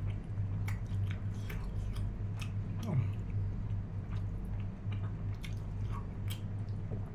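A person chewing food close to the microphone, with scattered wet mouth clicks, over a steady low hum. A short falling tone sounds about three seconds in.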